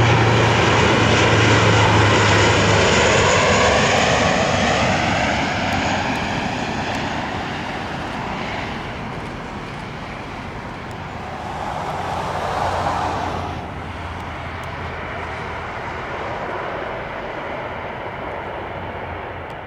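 An airplane's engine flying past, loudest at the start and slowly fading as the aircraft draws away, with a brief swell about twelve seconds in.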